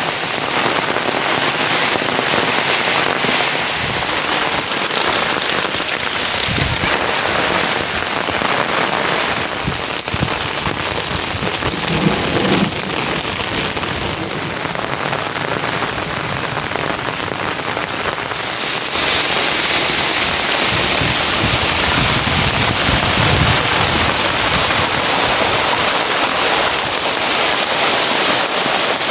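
Rain falling steadily, a dense even hiss that grows somewhat louder about two-thirds of the way through.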